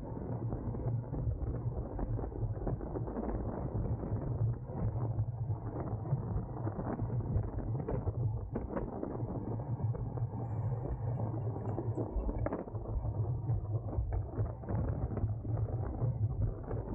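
Road racing bicycle on the move: a steady low rumble with many small clicks and rattles from the bike's mechanism, in an irregular ratcheting clatter.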